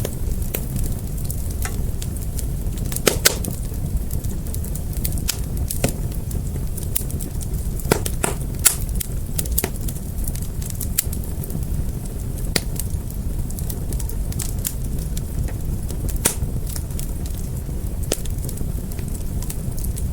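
Fire crackling with irregular sharp pops over a steady low rumble of flames, a few louder pops standing out about three and eight to nine seconds in.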